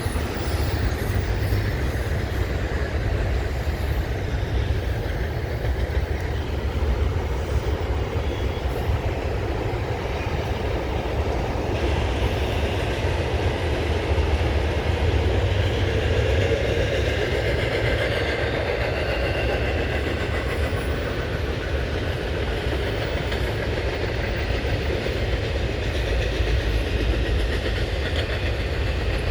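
Cars of a Norfolk Southern intermodal freight train rolling past steadily, their steel wheels rumbling and clacking over the rail joints. Faint high tones join in from about twelve seconds in.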